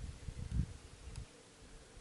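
Wind buffeting the microphone: an irregular low rumble that dies down after about a second.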